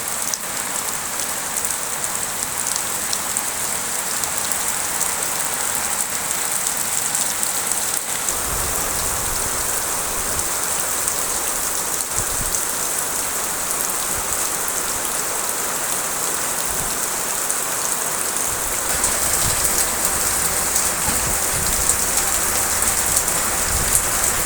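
Steady rain falling and pattering on surfaces, an even hiss. A low rumble joins underneath about a third of the way in and again near the end.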